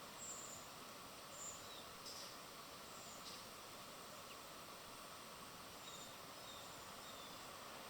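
Small birds at a feeder giving short, high chirps every second or so over a steady background hiss.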